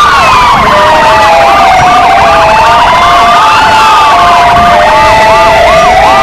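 Several electronic sirens sound together, very loud: two police-motorcycle sirens and two Kingvox ERP sirens. Slow rising and falling wails overlap quick repeated yelps, and in the second half a steady two-note hi-lo alternation joins in.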